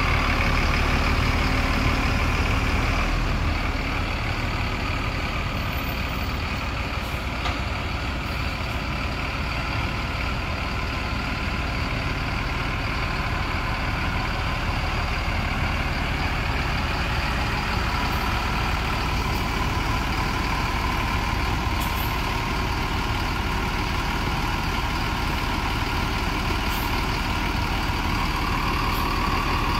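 Heavy engine running steadily with a low hum, the sound of large vehicles or the ferry's machinery around the vehicle deck.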